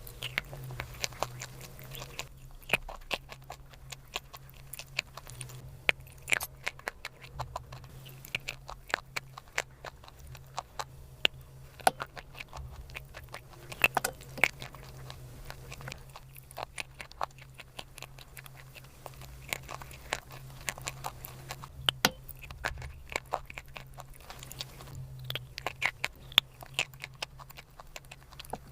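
Close-miked chewing and biting of crunchy chalk clay: a dense, irregular run of sharp crackles and crunches, over a steady low hum.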